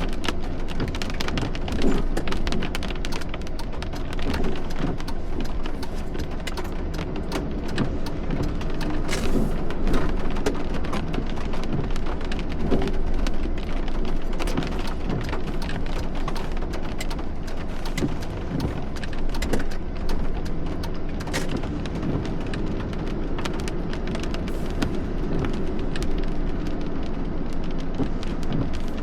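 Heavy thunderstorm rain: a dense patter of drops striking close by as many sharp ticks, over a steady low rumble.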